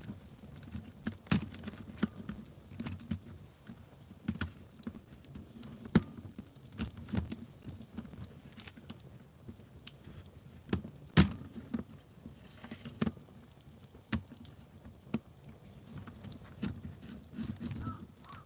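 Wood campfire crackling, with irregular sharp pops and snaps, a few of them much louder than the rest, the loudest about eleven seconds in.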